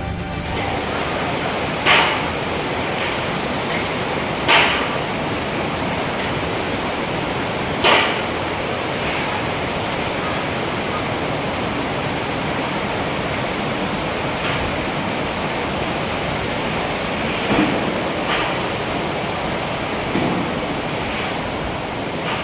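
Strong typhoon wind rushing steadily over the microphone. Several sharp buffeting hits stand out, three loud ones in the first eight seconds and a few weaker ones later.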